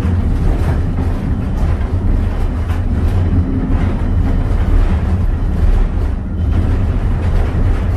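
Steady, loud low rumble of a train ride behind steam locomotive No. 2023, with faint clicks now and then over the rolling noise.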